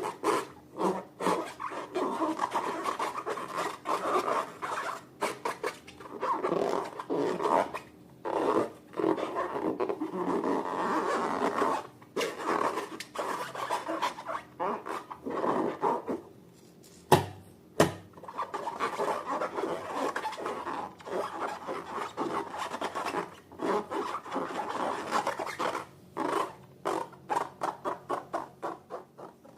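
Hands squishing, kneading and stretching slime in irregular wet rubbing and scraping bursts. A little past halfway there is a short lull with two sharp clicks.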